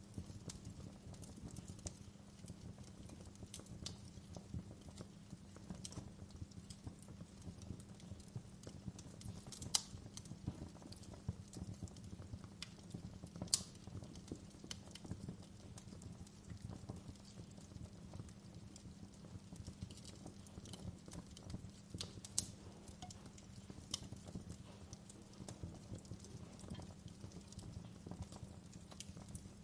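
Fire burning in a fireplace: a steady low rumble under frequent small crackles and pops, with two sharper pops about ten and fourteen seconds in.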